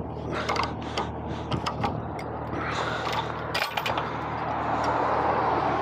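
Truck engine idling steadily under a run of sharp metallic clicks and clanks from load-binder chain hardware being handled, with a hiss of noise building in the second half.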